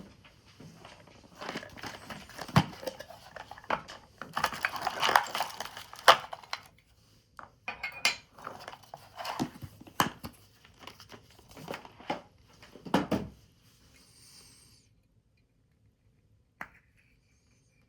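Paper being handled, folded and crinkled in short irregular bursts, with sharp taps of small objects set down on a hard surface; it goes quiet about three-quarters of the way through, leaving one last click.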